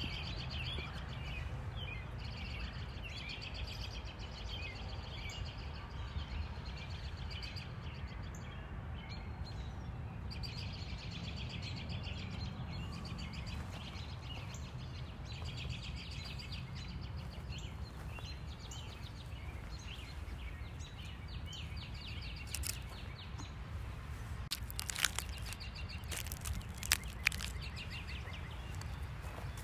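Birds chirping over a steady low rumble of outdoor noise, with a few sharp clicks near the end.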